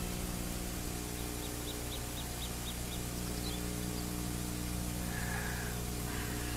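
Forest ambience: a small bird chirping a quick run of short, high notes, about three a second, over a steady low hum.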